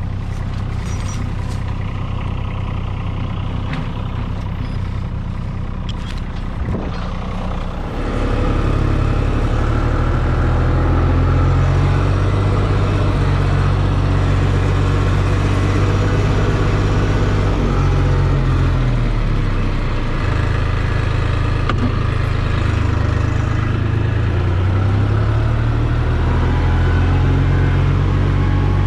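Farm tractor engine running steadily; about eight seconds in it grows louder and heavier and stays that way, as when the tractor takes up a pull.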